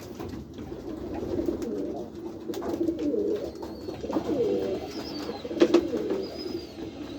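A flock of white pigeons cooing continuously, many low overlapping coos, with a few light clicks and scuffs mixed in.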